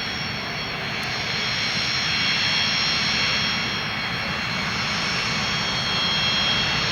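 Cessna CitationJet 4 business jet's twin Williams FJ44 turbofans running: a steady rushing noise with a high engine whine over it, growing a little louder over the first couple of seconds.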